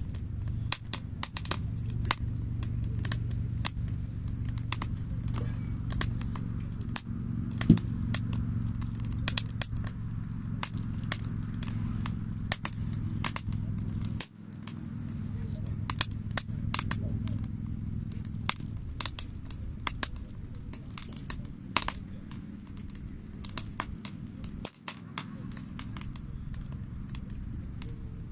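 Wood fire crackling with frequent irregular snaps and pops over a steady low rumble of the flames.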